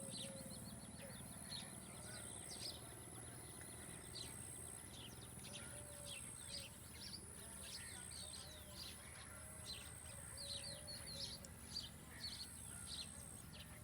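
Many small birds chirping in quick, overlapping short notes, with a lower curved call repeating now and then. A steady high-pitched buzz comes and goes in long stretches over a low background rumble.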